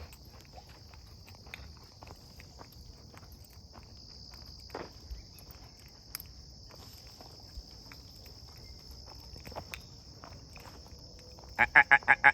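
Steady high buzz of an insect chorus with irregular footsteps on a trail. Near the end comes a quick run of about eight loud, pitched chirps.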